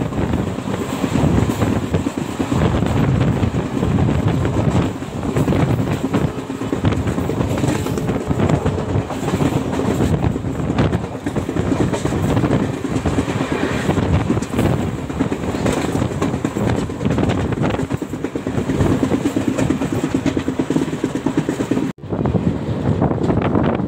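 Passenger train running at speed, heard from onboard a coach: a steady rumble of wheels on the track with irregular clickety-clack over rail joints. The sound cuts out for an instant near the end.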